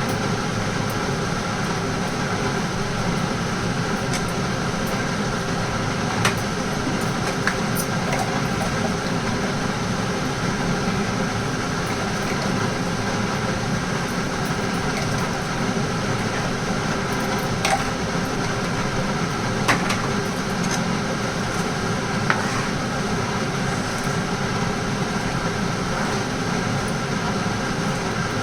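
A steady mechanical hum with faint steady tones, broken by a few short, light clicks or clinks.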